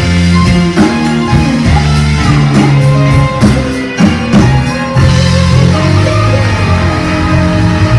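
Live rock band playing an instrumental passage: guitars over bass and drums.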